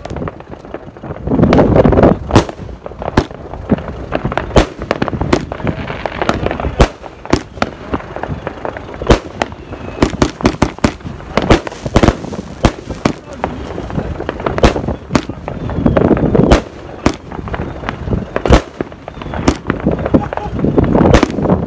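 24-Carat Gold aerial firework going off: a string of sharp bangs at uneven intervals, one or two a second and some much louder than others. Between them come swells of lower crackle and rumble.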